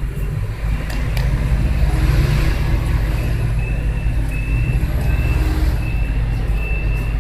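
Heavy engine machinery running with a deep, steady rumble, under a short high warning beep that repeats about once every 0.7 seconds, mostly in the second half.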